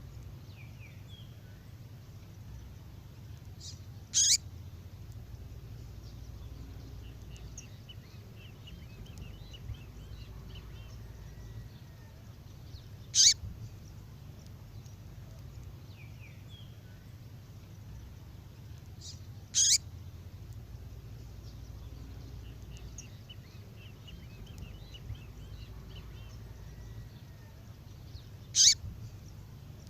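Female songbird call playback: four sharp, very short high call notes, spaced several seconds apart, with faint chirps and a soft trill between them that repeat about every 15 seconds, as in a looped recording. A steady low hum runs underneath.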